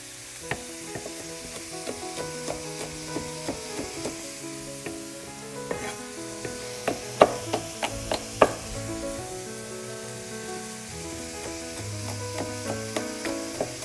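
Celery and onions sizzling in oil in a stainless frying pan, with a chef's knife chopping bell peppers on a wooden cutting board. A quick run of sharp knife strikes between about seven and eight and a half seconds in is the loudest part.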